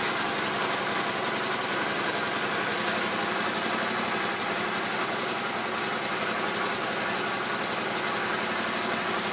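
1981 Honda Silverwing GL500's liquid-cooled V-twin idling steadily on choke, warming up just after starting; a sweet, even sound.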